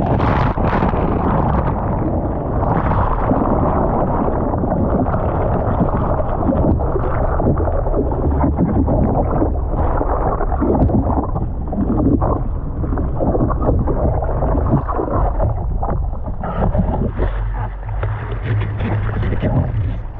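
Ocean surf churning and water sloshing close to the microphone, loud and muffled, surging over and over.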